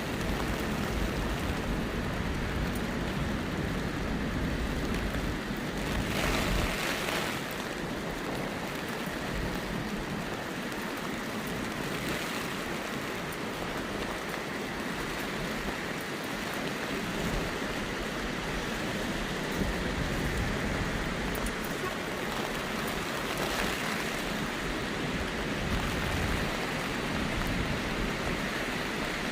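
Heavy typhoon rain pouring steadily, with a low rumble underneath; it swells louder briefly about six seconds in.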